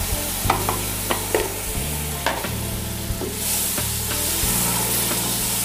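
Yogurt and ground masala sizzling as they hit hot oil and fried onions, with a wooden spatula stirring and clicking against the metal pot. The sizzle swells about halfway through.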